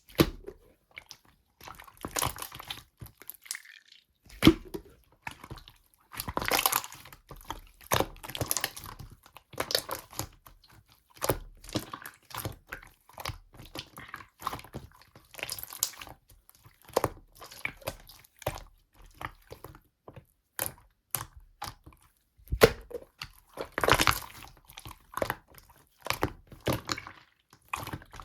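Slime being squished and pressed by hand, making irregular sticky clicks and wet pops, with a few longer squelches.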